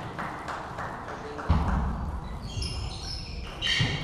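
Table tennis ball clicking in a rally, about three or four hits and bounces a second, then a loud low thump about a second and a half in. Several high shoe squeaks on the hall floor follow, and another squeak with a thump near the end.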